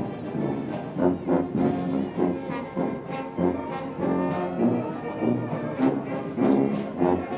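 Brass band music playing, held brass notes over a regular beat.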